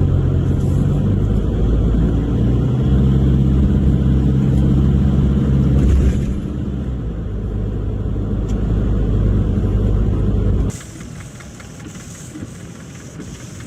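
Car engine running, its low hum shifting pitch a few times as the vehicle changes speed. About eleven seconds in, the engine sound cuts off abruptly, leaving a much quieter hiss.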